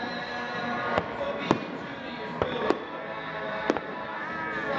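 Aerial fireworks going off: five sharp bangs at uneven spacing, about a second apart, with music playing underneath.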